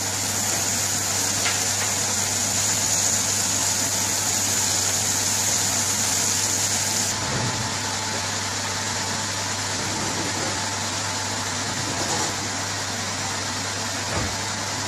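Chopped spinach sizzling in a frying pan over a steady low hum. The hiss drops back about seven seconds in.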